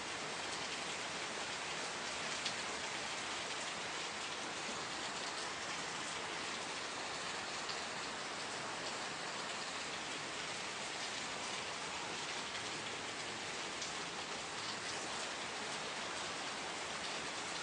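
Steady rain falling, a dense even patter of drops on surfaces with occasional individual drops standing out.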